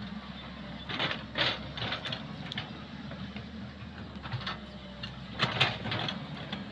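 Komatsu PC130 hydraulic excavator's diesel engine running steadily, with a series of short, sharp mechanical clanks and rattles from the working machine, the loudest about five and a half seconds in.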